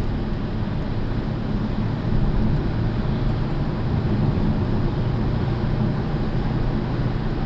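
Steady road and engine noise of a moving car, heard from inside the cabin, with a low rumble.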